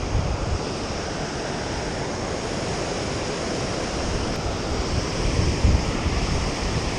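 Steady rushing of water at a river spillway, with wind rumbling on the microphone briefly near the start and again between five and six seconds in.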